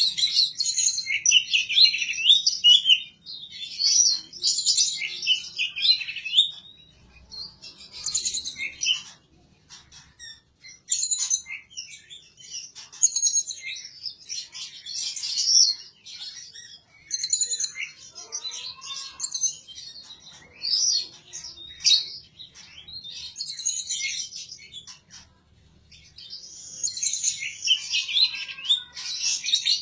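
A songbird singing repeated phrases of rapid high chirps and trills, with short pauses between phrases.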